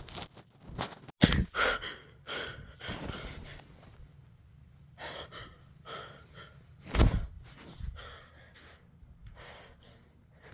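A person breathing hard and gasping in irregular bursts, with the loudest gasp about seven seconds in.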